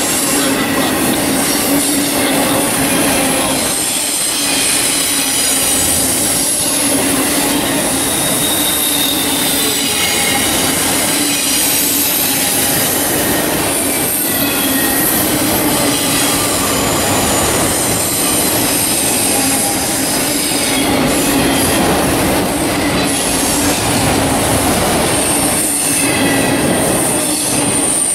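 Freight train of autorack cars rolling past close by: a steady rumble and clatter of steel wheels on the rails. High, wavering wheel squeals come and go over it.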